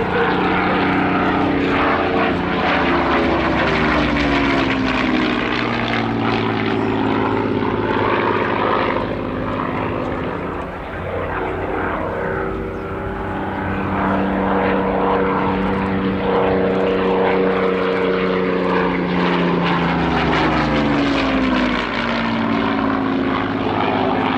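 Hawker Hurricane's Rolls-Royce Merlin V12 piston engine droning through display passes, its pitch falling as the aircraft goes by a couple of seconds in and again near the end.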